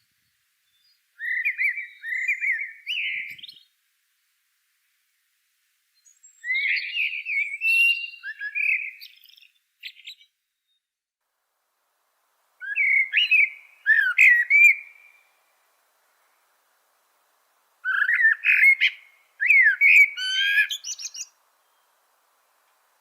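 A songbird singing in four short phrases of quick chirps and slurred whistled notes, each phrase two to four seconds long, with pauses of a few seconds between them.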